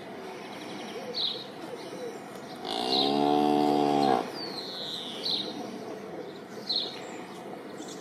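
A cow moos once, a single low call lasting about a second and a half, a little before halfway. Short high bird chirps repeat every second or so.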